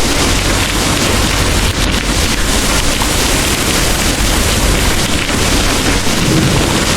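Heavy rain pouring in a steady dense hiss, under a deep low rumble of distant thunder.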